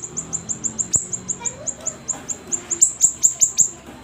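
Siri-siri bird singing prolifically, a fast, even run of short, high chirps that each drop in pitch, about seven a second.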